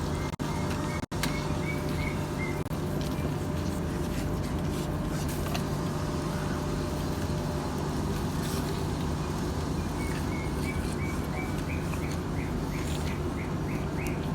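A bird chirping in quick runs of short, evenly repeated notes, once about a second in and again from about ten seconds on, over a steady low rumble.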